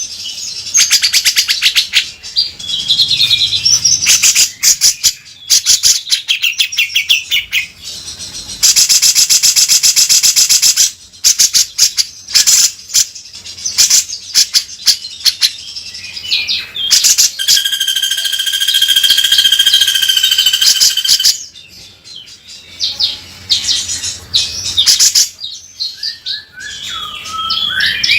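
Cucak jenggot (grey-cheeked bulbul) singing loudly and continuously in harsh, rasping bursts, the rough 'beset kasar' style: fast buzzy rattles and chattering mixed with chirps, and a long held buzzy note about two-thirds of the way through.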